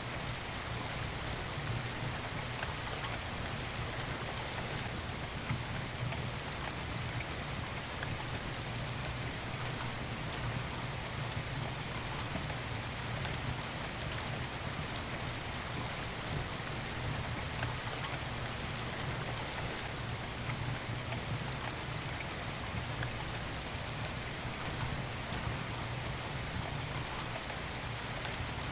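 Steady rain falling, a constant even hiss with a few faint isolated ticks.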